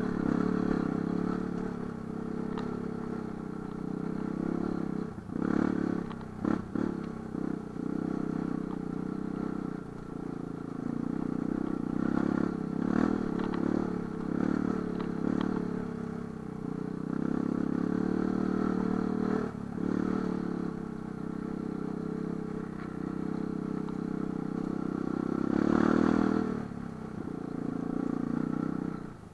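Light enduro motorcycle engine running under changing throttle, with several brief dips where the throttle closes and a louder swell near the end. Intermittent clatter and knocks run through it.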